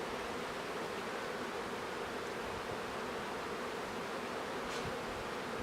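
Honeybee colony buzzing steadily from an opened hive as its frames are worked, a dense even hum centred on a low drone.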